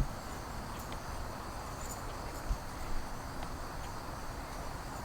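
Crickets chirring steadily in the background over a low outdoor rumble, with a few soft thumps.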